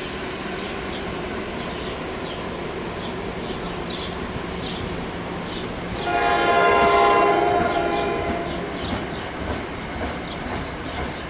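Passenger train running through a station with steady rail noise and faint wheel clicks. Its horn sounds about six seconds in and holds for about two seconds, the loudest moment.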